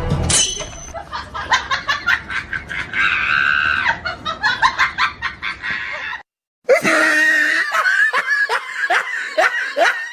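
High-pitched shrieking laughter in rapid repeated bursts, breaking off for a moment about six seconds in and then going on.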